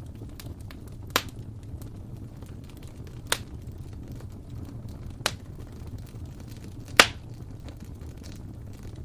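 Wood fire in a fireplace crackling: a steady low burning rumble with scattered faint ticks and four sharp pops spaced about two seconds apart, the last the loudest.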